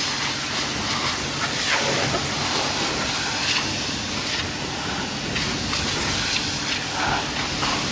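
High-pressure washer spraying water against a truck, a steady hissing spray that rises and falls a little as the jet moves.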